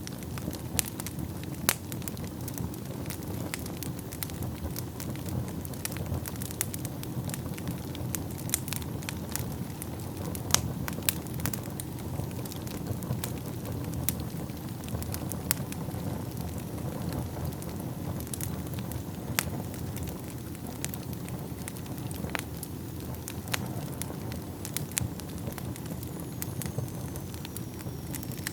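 Wood fire burning in a fireplace: a steady low rumble of flames with frequent irregular crackles and sharp pops. A faint high whistle falls slowly in pitch near the end.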